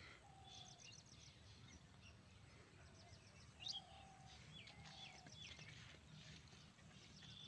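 Faint outdoor birdsong: several birds chirping and calling on and off, with short high chirps and a few quick upward-hooking calls, over a low steady background rumble.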